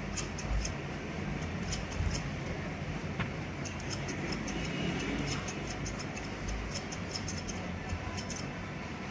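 Barber's scissors snipping through hair in quick runs of crisp snips, with short pauses between runs.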